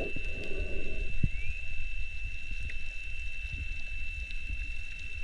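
Underwater sound on a free dive: a muffled low water rumble with scattered small clicks and a steady high whine.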